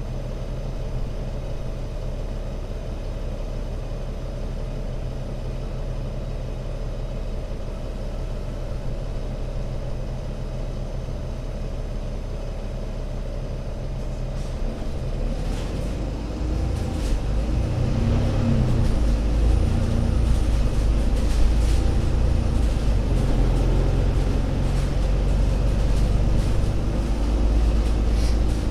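ADL Enviro500 MMC Euro 6 double-decker bus engine running steadily, then about halfway through growing louder with a shifting note as the bus pulls away and accelerates.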